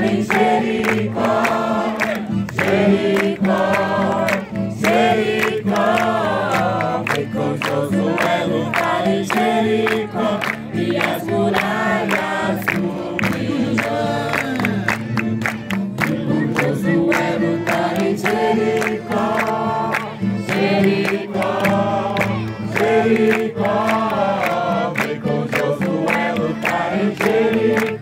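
A group of people singing a worship song together over musical accompaniment, with sharp strikes keeping a steady beat.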